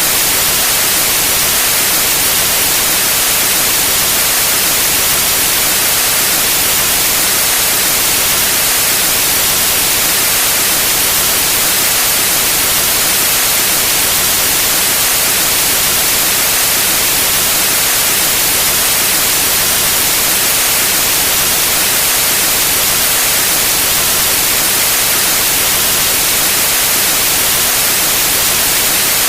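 Steady white noise: an even, unbroken hiss, loudest in the high frequencies.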